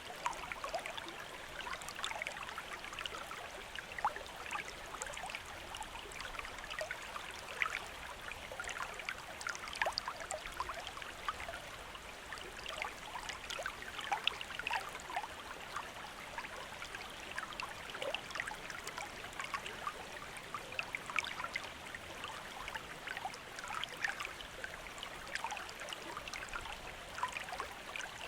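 River or stream water running steadily, with many small splashes and trickles over a continuous rush.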